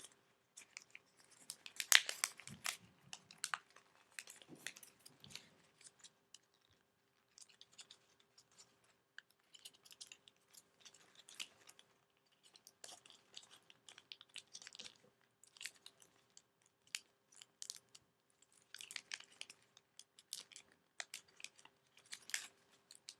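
A paper origami model being folded and creased by hand: irregular crinkles and crackles of the paper, loudest about two seconds in, with a faint steady hum underneath.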